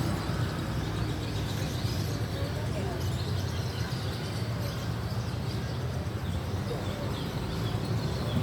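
Bird market ambience: many caged songbirds chirping in short high notes over a steady low rumble and indistinct voices.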